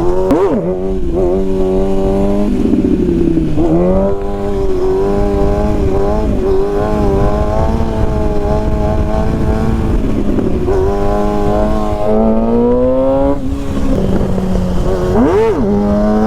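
Stunt motorcycle's engine running while being ridden, mostly at steady revs, with the pitch dropping and climbing again several times as the throttle is rolled off and back on. A quick rise-and-fall in pitch comes about half a second in and again near the end.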